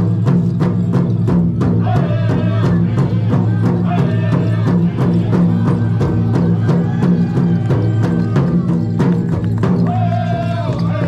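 Hoop dance song: a fast, steady drumbeat of about four beats a second under a low steady hum, with singing voices coming in about two seconds in.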